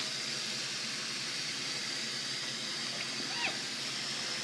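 Tap running water into a bathtub, a steady rush, with one short chirp from a black-capped capuchin monkey about three and a half seconds in.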